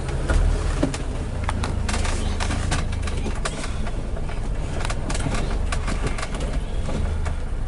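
BMW 2002's four-cylinder engine running at low revs inside the cabin as the car is put in reverse, with scattered clicks and knocks.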